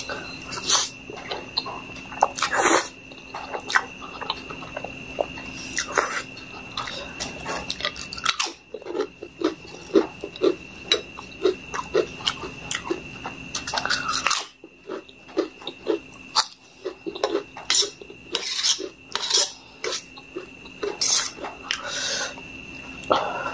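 Close-miked chewing of Maggi noodles and fried egg, with many quick irregular mouth clicks, and a steel fork clinking and scraping on a steel plate.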